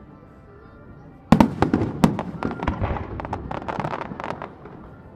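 Fireworks display: after a quiet opening second, a loud shell burst about a second in sets off a rapid string of sharp cracks and bangs that thins out near the end.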